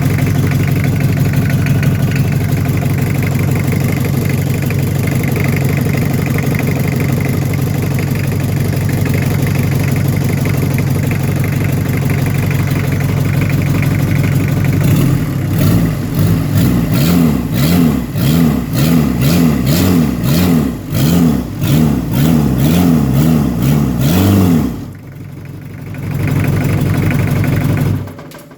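Toyota 2C four-cylinder diesel engine running on a test start. It idles steadily for about fifteen seconds, then is blipped again and again, its pitch rising and falling with each rev, and it drops off and stops near the end.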